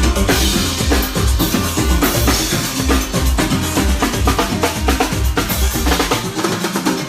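Live band playing with a steady beat, the drum kit's bass drum and snare to the fore over bass and other instruments.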